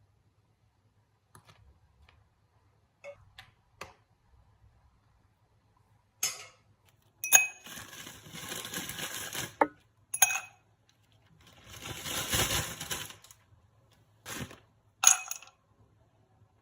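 Hard household objects being handled: several sharp, ringing clinks, with two stretches of steady rushing noise a couple of seconds long between them.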